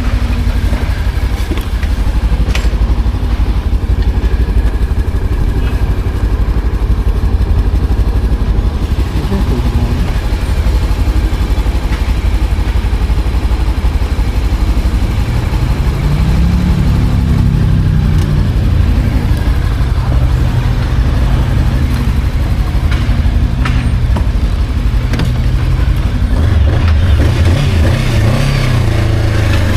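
Motorcycle engine running under way, with a steady low rumble; from about halfway the engine note rises and falls as the throttle is opened and eased, and it revs again near the end.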